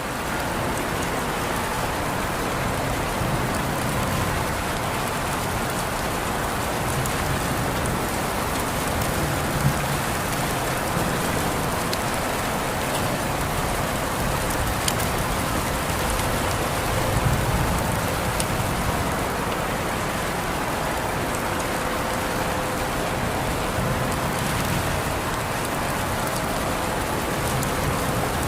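Steady rain falling on a surface, an even wash of drops with a few sharper individual drop ticks.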